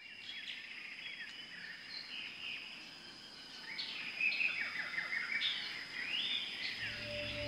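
Birds chirping and calling in many short, quick phrases over a steady, thin high-pitched tone. Near the end, music with low sustained tones comes in.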